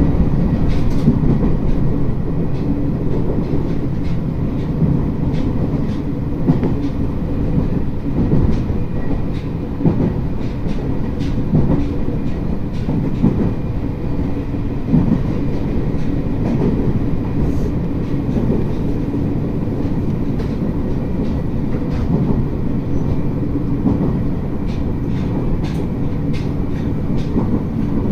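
N-gauge model of an E657 series electric train running on its track: a steady motor and running hum with scattered clicks from the wheels over the rail joints.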